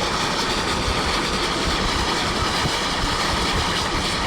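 Recorded train sound effect: the steady rumble and clatter of a train running on rails.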